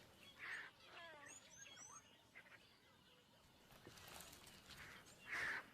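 Faint open-air ambience with a few short, quick bird chirps and calls about a second in, and two brief soft noisy puffs, one early and one near the end.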